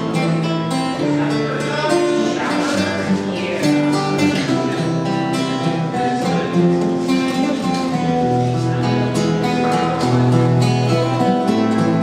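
Solo acoustic guitar playing a plucked instrumental passage, a steady run of picked notes with some left ringing.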